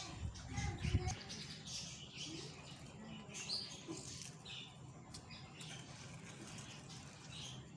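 Birds chirping: short high chirps every second or so, with a brief low thump about a second in.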